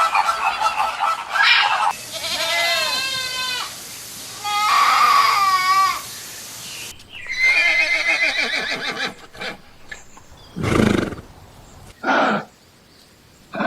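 A string of animal calls: several wavering, pitched bleats, then a few short, lower calls repeated about every second and a half.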